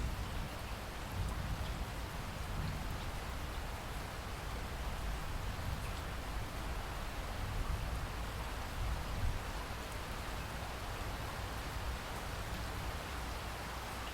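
Steady rain falling in a rainforest, a dense even hiss with a low rumble beneath and scattered drops.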